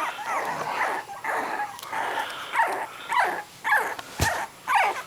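Three-week-old miniature dachshund puppies squealing and whimpering in short, repeated cries that slide up and down in pitch, protesting at being taken from their mother and one being laid on his back. A single sharp click about four seconds in.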